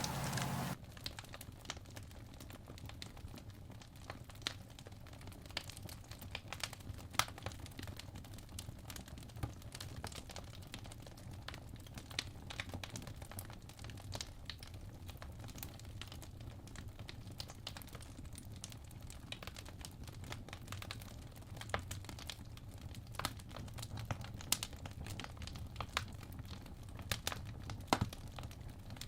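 Campfire crackling: irregular sharp pops and snaps of burning wood over a low steady rumble. A louder noise cuts off suddenly less than a second in.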